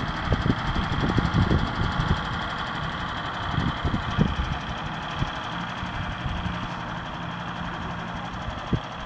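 John Deere farm tractor engine running steadily, with low rumbling in the first couple of seconds, growing gradually quieter.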